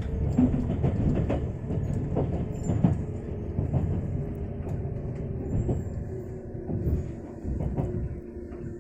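Train running on rails: a steady low rumble with wheel knocks over the rail joints, getting gradually quieter toward the end.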